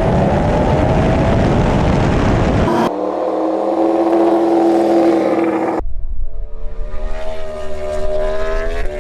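High-revving racing engines in three cut-together clips, each holding a steady or slowly shifting engine note, with abrupt changes in sound about a third and two thirds of the way through.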